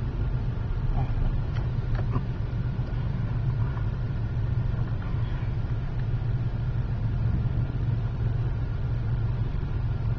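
Car engine running, a steady low hum.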